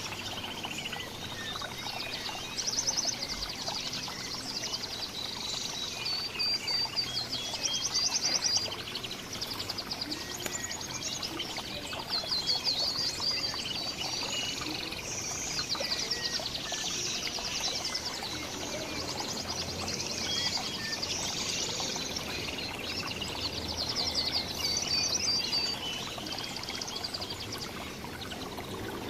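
Several songbirds chirping and singing at once, with repeated bursts of fast, high trills every few seconds.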